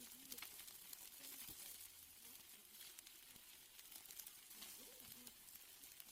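Steaks sizzling faintly on a grill: a steady hiss with scattered small crackles and pops.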